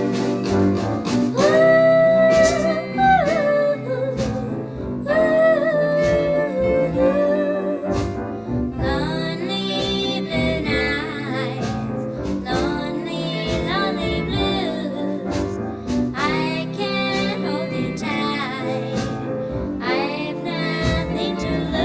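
A 1961 pop ballad recording in a stereo remix: a female lead voice sings held, wavering notes over guitar and a backing band.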